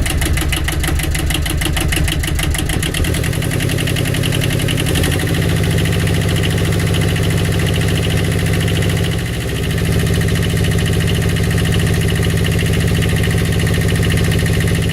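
Small marine diesel engine of a 1983 Catalina 30 sailboat running with a fast, even firing beat. This is the test run after a new water pump impeller was fitted, to check for leaks. Its note changes about five seconds in and dips briefly around the middle.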